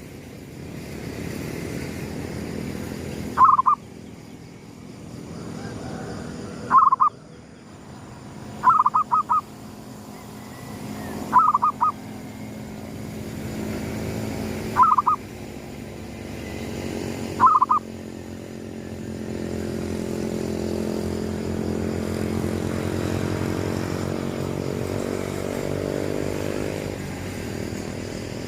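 Zebra doves (perkutut) cooing: about six short, quick-pulsed coos, a few seconds apart, stopping shortly after halfway. Under them runs a low, steady engine hum that grows louder in the second half.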